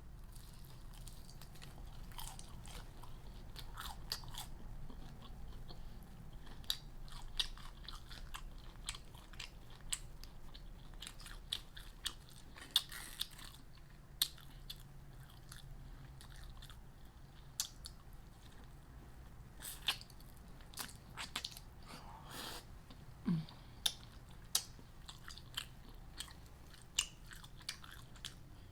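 A person biting and chewing crunchy fried food close to the microphone: irregular sharp crunches scattered over soft chewing.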